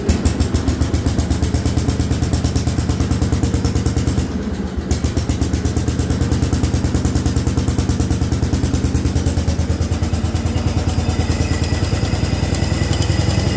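Allis-Chalmers B210 garden tractor engine running steadily with a rapid, even firing beat, just after being started. It dips briefly about four seconds in, and a faint higher whine joins near the end.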